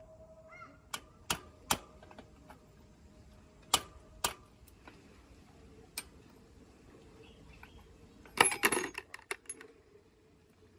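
Sharp metallic clicks and taps from metal parts and tools being handled, a few spaced out over the first six seconds, then a brief clattering rattle of small metal parts about eight and a half seconds in.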